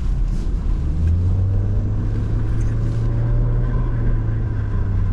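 Porsche Macan driving in snow, a steady low drone of engine and road noise.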